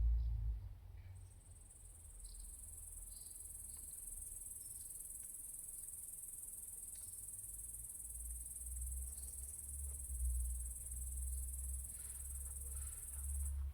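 High-pitched insect trilling, a steady buzz that starts about a second in and cuts off suddenly near the end. Under it runs a low wind rumble, with a few faint bird chirps.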